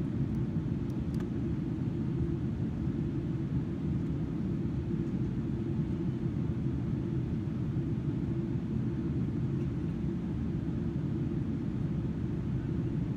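Steady in-flight cabin rumble of a Boeing 777-300ER airliner heard from a window seat: GE90 engine drone and airflow noise, a low, even roar with a faint hiss above it.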